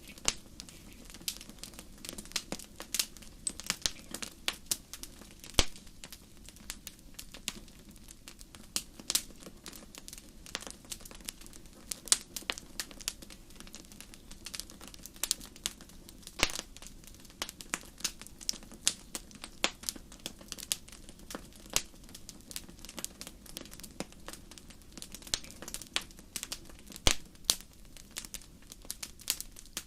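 Wood fire in a fireplace crackling: irregular sharp pops and snaps over a low steady hiss of burning.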